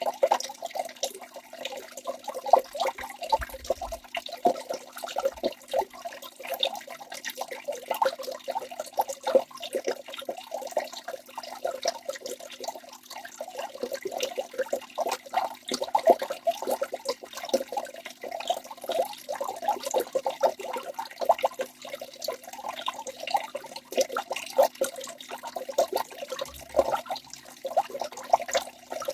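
Waterfall water rushing and splashing steadily, a constant uneven splashing without pause.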